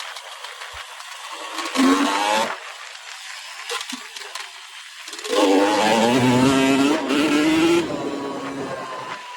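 KTM motorcycle engine revving under way: a short burst of throttle about two seconds in, then a longer, louder pull from about five to eight seconds in, easing off after.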